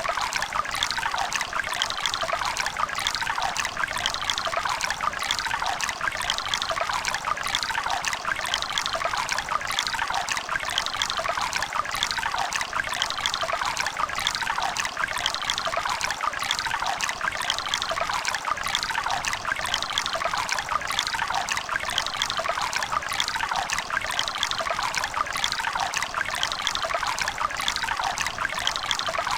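A running river: a steady rush of water made up of many small splashes and gurgles, holding even.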